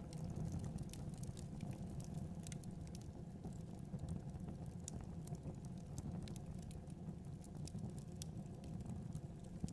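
Wood fire crackling in a fireplace: scattered sharp pops and ticks over a steady low rumble of flames.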